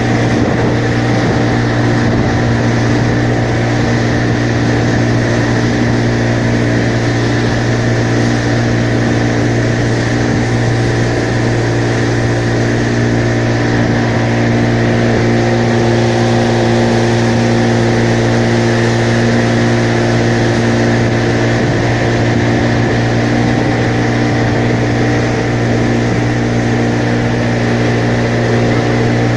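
An engine running steadily at a constant speed, loud and close, with a strong low hum.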